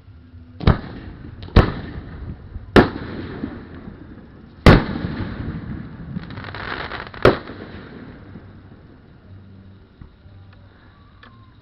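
Aerial fireworks shells bursting: five loud bangs spread over about seven seconds, each trailed by a hiss of noise, with a few faint pops near the end.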